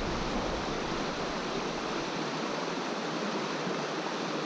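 Steady rushing of a river's fast current.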